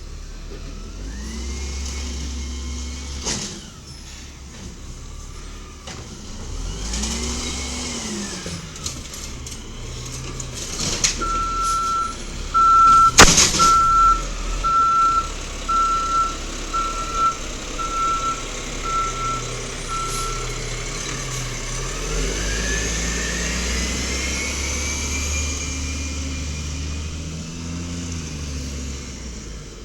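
Side-loader garbage truck at work. Its diesel engine revs up and down several times, and there is one loud bang partway through. A reversing beeper sounds about ten steady beeps, then the engine climbs in pitch as the truck moves off.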